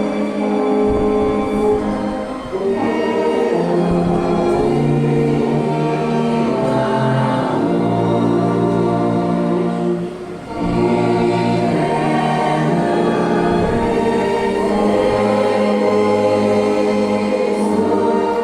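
A hymn sung by a large group of voices with orchestral accompaniment, in slow, held chords, with a brief pause between phrases about ten seconds in.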